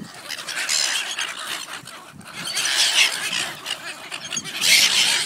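A flock of silver gulls squawking and calling over one another, a harsh, high-pitched chorus that swells about three seconds in and again near the end.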